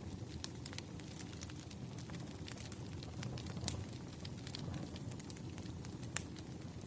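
Campfire crackling: a steady low rumble of burning wood with irregular sharp pops and snaps, the loudest pop about six seconds in.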